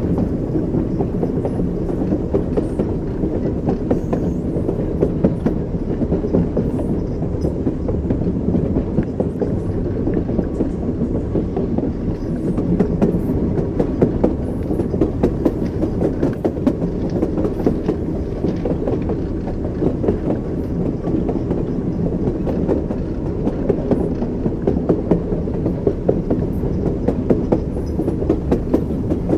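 Train wheels rolling over rail joints: a steady low rumble with frequent clattering knocks, heard from a moving train.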